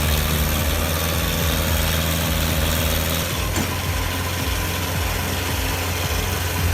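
Tractor engine running at a steady, constant speed, a low even drone that neither revs up nor down.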